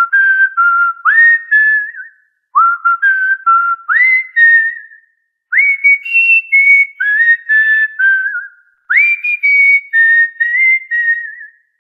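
A whistled tune in four short repeated phrases. Each phrase opens with a rising swoop, then steps through several held notes, with brief pauses between phrases.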